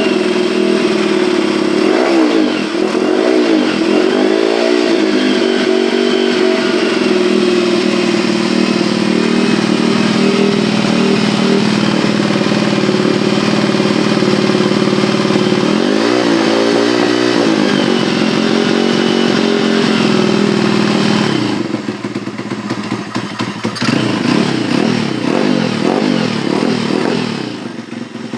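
Pit bike engine running, revving up and down several times in the first five seconds and again about two-thirds through, then dropping quieter about three-quarters through.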